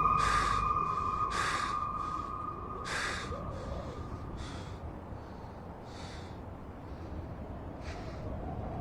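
A held music tone fading out, with a string of short breathy puffs or snorts about one to two seconds apart.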